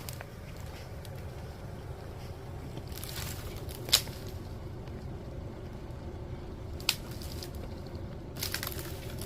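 Off-road vehicle on a rough dirt track: a steady low engine and tyre rumble, with two sharp knocks about four and seven seconds in and short rattling bursts around three and eight and a half seconds.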